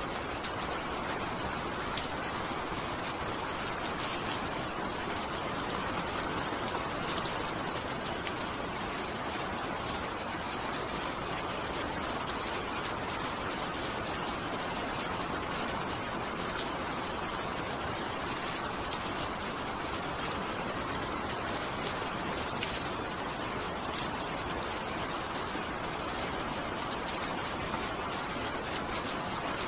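Steady rain falling: a dense, even hiss with scattered sharper ticks of single drops, one louder tick about seven seconds in.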